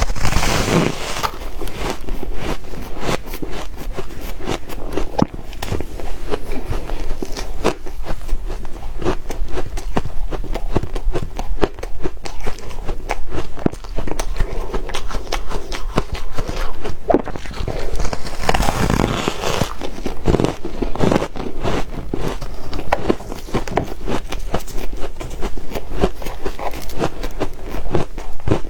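Soft, powdery ice being bitten and chewed: dense, rapid crunching and crackling, with heavier bites about half a second in and again around nineteen seconds.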